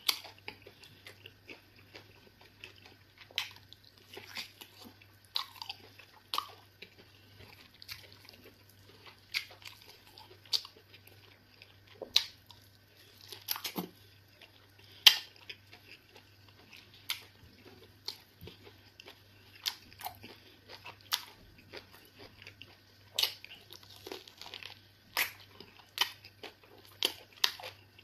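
Close-up mouth sounds of a person eating eba with egusi soup by hand: wet chewing and lip smacks, with sharp smacks about every second or so.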